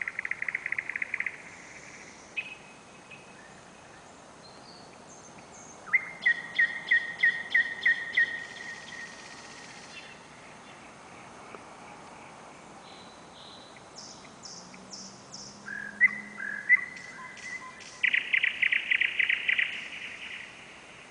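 Thrush nightingale singing at night: loud phrases of rapidly repeated hard notes, including a series of about eight strong strokes a few seconds in and a fast rattling trill near the end, with high whistled notes and pauses of a few seconds between phrases.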